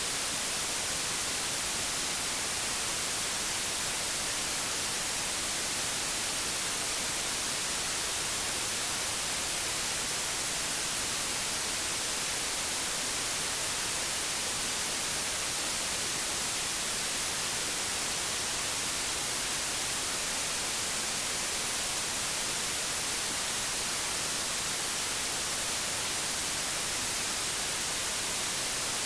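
Static from an old analogue television: a steady, even hiss, brightest at the top of the range.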